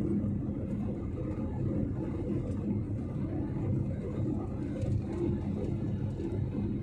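Steady low rumble of an airliner's jet engines and airflow heard from inside the cabin during takeoff, with a faint steady hum under it.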